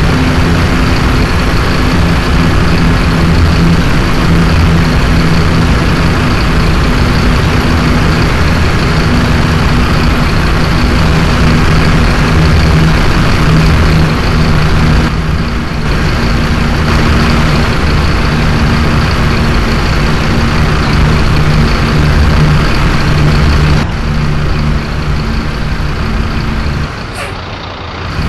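Scania city bus engine running steadily while under way, heard from inside the passenger cabin. The engine sound drops from about 24 s in and quietens further near the end, where there is a brief sharp sound.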